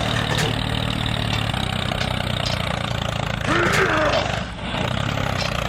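Small motor of a miniature model construction machine running steadily, with a short voice-like call about three and a half seconds in.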